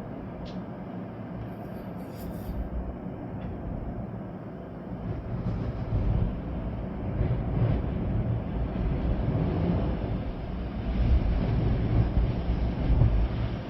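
Storm-force wind gusting with a deep rumble that swells and eases, growing stronger in the second half, over steady rain.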